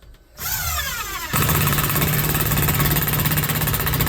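Cordless drill driving a screw into wood on a nearly flat battery. The motor whines up in pitch, then about a second in it settles into a loud, steady, rapid hammering rattle.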